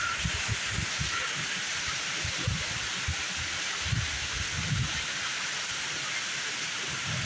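Heavy thunderstorm rain pouring steadily, with irregular low buffeting thumps of wind on the microphone.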